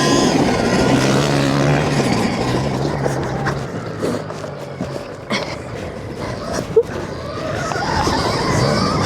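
Stark Varg electric motocross bike being ridden: motor whine over a rush of noise, with a low hum through the first half. It eases off around the middle with a couple of sharp knocks, then builds again with a higher whine near the end.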